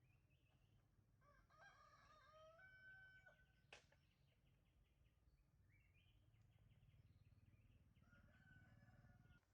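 A distant rooster crowing faintly, one crow about a second in and a fainter one near the end, with small birds chirping and one sharp click just after the first crow.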